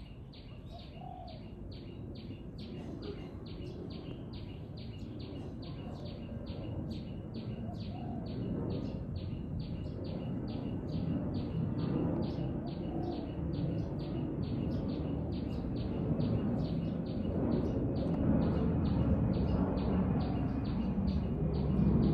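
A small bird chirping one short high note over and over, evenly at about three times a second, over a low background rumble that slowly grows louder.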